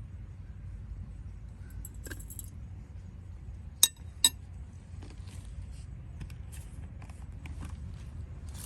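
Kitchenware clinking: two sharp, ringing clinks about half a second apart, a little before the middle, with a few fainter clinks around them over a steady low rumble.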